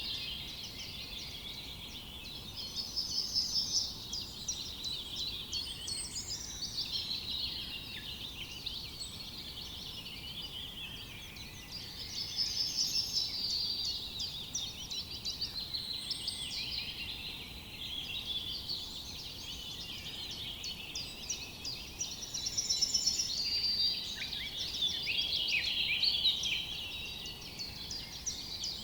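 Several songbirds singing and chirping over one another in a dense forest chorus, with a fast high trill coming back about every ten seconds.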